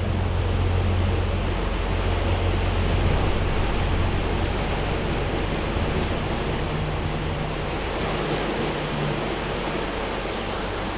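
Fast, high river water rushing steadily past, an even roar of moving water with a low rumble beneath it.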